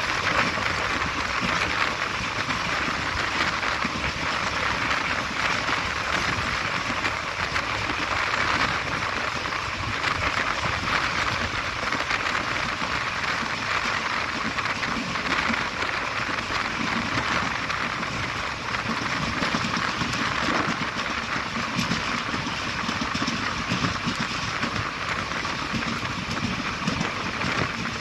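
A passenger express train running at speed, heard from an open coach door or window. The steady rush of wind and wheels on the rails does not break or change.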